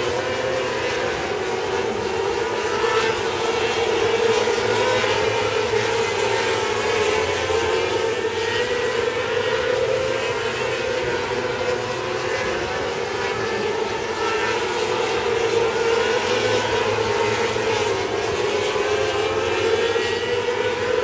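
Winged sprint car's racing engine running hard at high revs, its pitch sinking and climbing again in slow waves as the car goes around the track, over a steady rush of wind and track noise.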